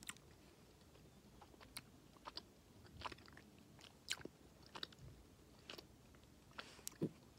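Faint mouth noises of someone chewing a chewy candy: scattered quiet clicks and smacks at irregular intervals.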